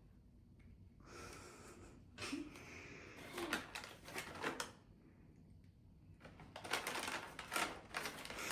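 A bag rustling and crinkling in irregular bursts of small crackles as a cat moves about in it, with a soft breathy stretch about a second in and denser crackling near the end.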